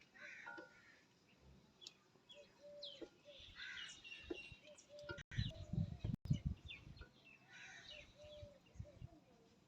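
Small birds chirping throughout, with a cluster of low thuds and knocks from about five to six and a half seconds in.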